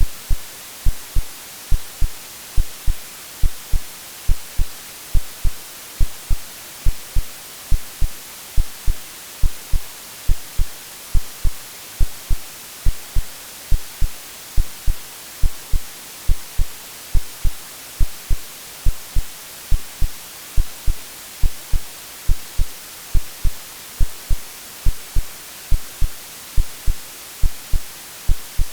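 Synthetic heartbeat, a steady double 'lub-dub' thump repeating a little more than once a second, over a constant white-noise hiss.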